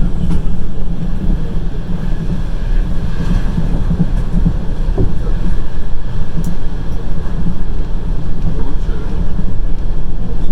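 Passenger train running along the line, a steady loud rumble of wheels on the rails heard from on board.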